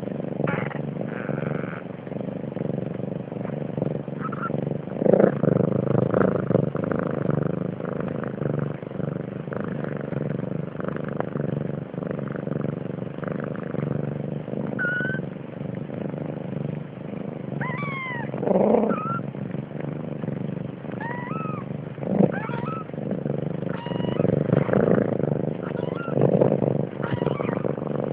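A cat meowing several times in short, high, bending calls, mostly in the second half, over a steady low rumble.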